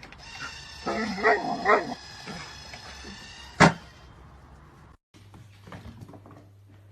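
A dog giving a few short barks about a second in, followed a couple of seconds later by a single sharp click.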